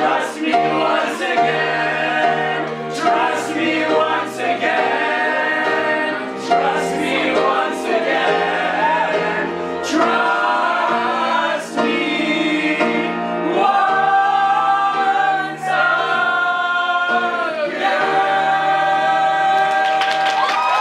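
Group of voices singing together with instrumental accompaniment, a sustained ensemble finale that ends on a long held note.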